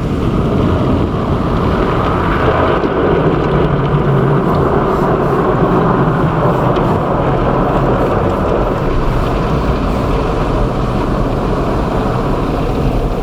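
Rinse water from a tunnel car wash spraying steadily onto the car, heard from inside the cabin, with the wash machinery running underneath.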